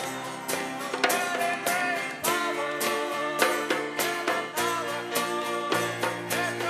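Live worship band music: plucked and strummed guitar over a steady, driving beat with drum strikes, and faint singing.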